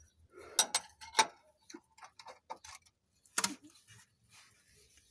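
A handful of sharp, irregular clicks and taps of hand tools being handled around the car's front suspension, loudest in the first second and once more past the middle.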